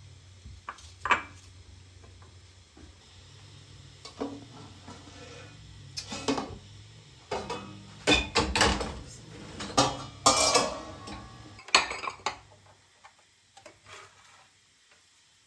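Dishes and metal utensils clattering and knocking together in irregular strokes, busiest and loudest in the middle and dying away near the end.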